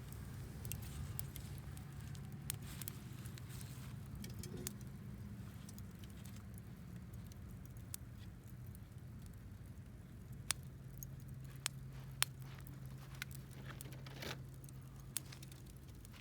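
Wood campfire crackling, with sharp pops at irregular intervals and a few louder ones in the second half, over a steady low hum.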